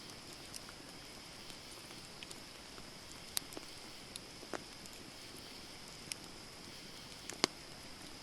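Wood fire crackling: scattered sharp pops and snaps from the burning logs, a few a second at most, the loudest about seven seconds in, over a steady high hiss.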